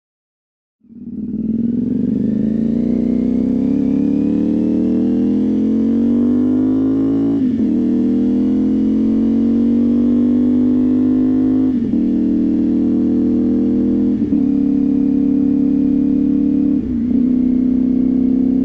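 CFMOTO 450SS's 449 cc parallel-twin engine pulling hard, its pitch climbing steadily, then upshifted four times, each shift a brief dip in the sound, as the motorcycle accelerates. The sound fades in about a second in.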